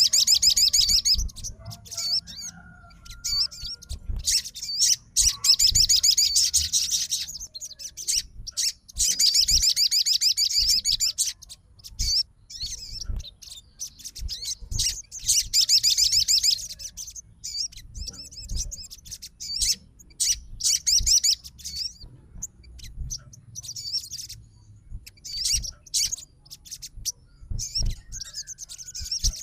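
Sogon bird singing in full song: repeated bouts of rapid, high, trilling chatter a couple of seconds long, with short chirps in between.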